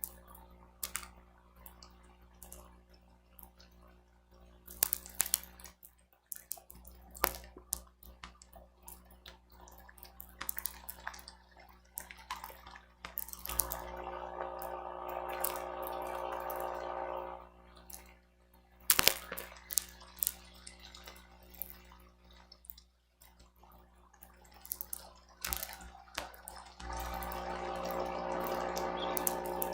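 Thunderstorm rain and wind on an outdoor nest camera's microphone: scattered drops tapping and clicking, with two heavier gusts of rain a few seconds long, one mid-way and one near the end.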